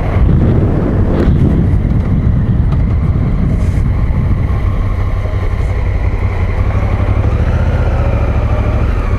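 Adventure motorcycle being ridden on sealed road: steady engine noise mixed with heavy wind rush on the on-board microphone.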